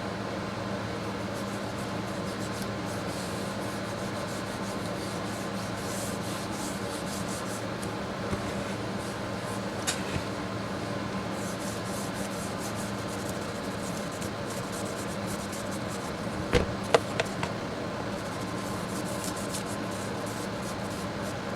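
Steady rubbing, like hand sanding, over a constant low hum, with a few sharp clicks about three-quarters of the way through.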